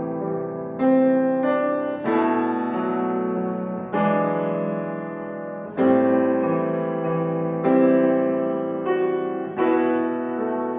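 Piano played slowly: full chords struck about every one to two seconds, each ringing on and fading before the next.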